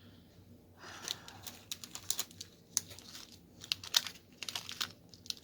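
Diamond-painting work: crinkling of the canvas's plastic cover film with a run of small, sharp clicks from the drill pen and resin diamonds. It starts about a second in and goes on in irregular ticks and crinkles until near the end.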